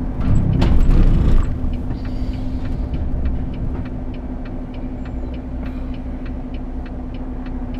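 Cab interior of a Volvo FH 540 lorry on the move: a steady engine hum over a low rumble, louder with a few knocks in the first second and a half and then settling. A light, regular ticking runs at about three a second.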